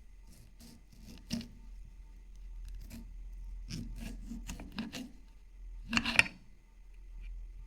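Irregular rubbing and scraping strokes of hand food preparation, with a louder cluster about six seconds in.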